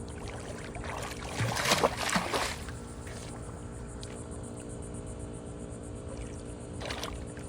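A child splashing in pool water: a burst of splashing about a second and a half in, lasting about a second, and a shorter splash near the end, over a steady low hum.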